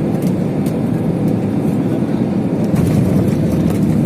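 Steady low rumble of an aeroplane's engines as it comes in to land.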